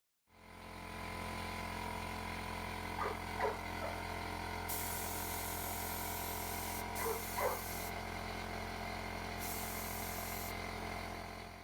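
Paint spraying: two bursts of spray hiss, one about three seconds long starting near the middle and a shorter one near the end, over a steady hum. Two pairs of short squeaks sound about three and seven seconds in.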